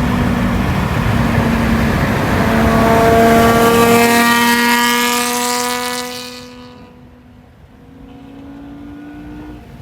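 Ferrari 599's naturally aspirated 6.0-litre V12, fitted with headers and a full race exhaust, running hard at high revs. It peaks about three seconds in and fades away over the next few seconds. A quieter engine tone, rising slightly in pitch, carries on near the end.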